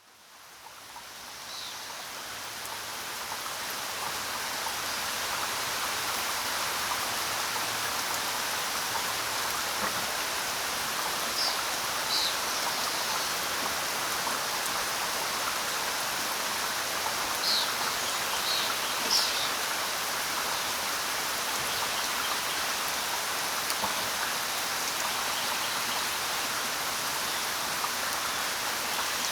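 Steady rain ambience, a dense even patter, fading in from silence over the first few seconds. A few brief high chirps sound in the middle.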